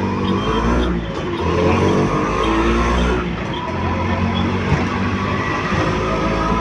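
A motor vehicle's engine running, with a steady low rumble.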